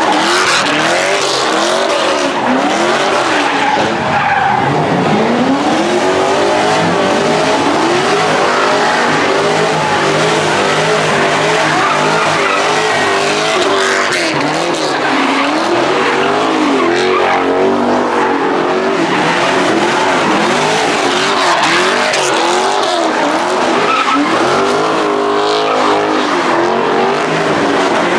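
A car's tyres squealing and its engine revving hard without a break, the pitch swinging up and down, as it drifts or does donuts.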